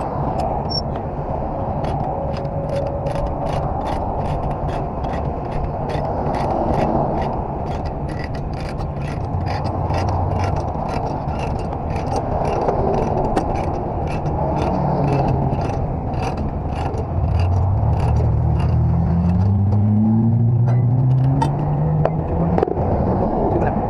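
A motor running steadily with a sharp tick about twice a second. Near the end its pitch rises in several glides, as if it is revved or put under load.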